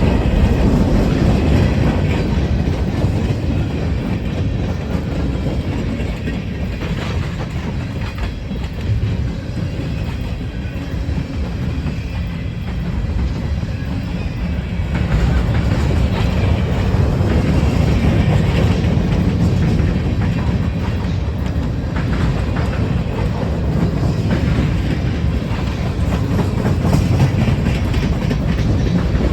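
Freight train rolling past: a steady low rumble of wheels on rail with clacking over the rail joints.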